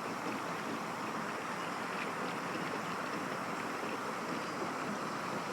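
Steady rush of river floodwater pouring over a cut in an earthen levee: the water is overtopping the small dug inlet because the river is rising faster than the field behind it fills.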